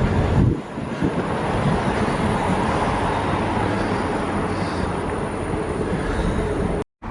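Train passing on the line close by, a steady rumble and rush of wheels on rail; it cuts off suddenly near the end.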